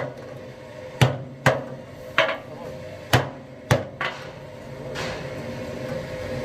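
Hand hammer striking the metal of a truck rear axle tube, about seven irregular blows in the first four seconds, some with a brief ring. After the hammering stops, a steady hum grows louder.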